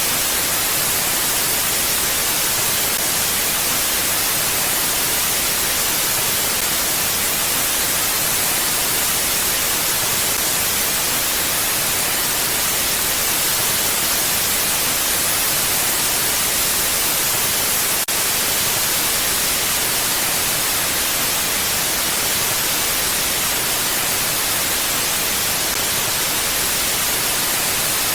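Wind blowing as a steady, even hiss, with no gusts or lulls.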